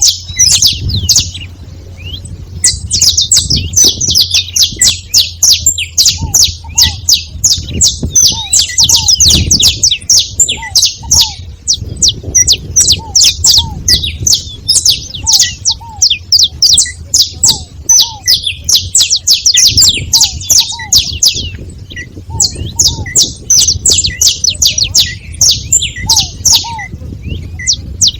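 Several saffron finches chirping and singing together in a dense, rapid stream of high-pitched notes, pausing briefly about a second in and again a little past the middle. A faint low hum runs underneath.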